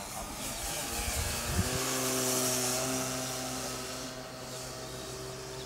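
Electric motor and propeller of an RC Cessna 182 model airplane in flight, a steady hum with a rushing propeller noise that grows louder about two seconds in and then fades as it passes.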